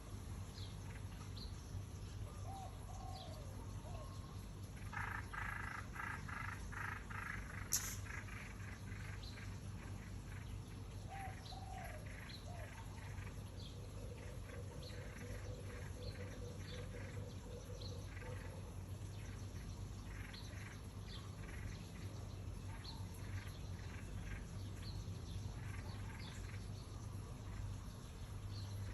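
Small birds chirping in quick repeated runs, busiest a few seconds in, over a steady low hum, with a single sharp click just before the eight-second mark.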